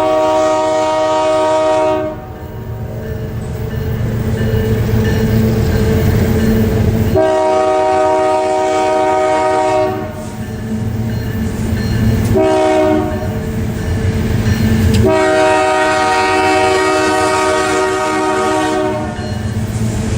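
Canadian Pacific diesel locomotive's air horn sounding the grade-crossing signal: long, long, short, long, each blast a chord of several tones. The locomotive's engine rumbles steadily underneath.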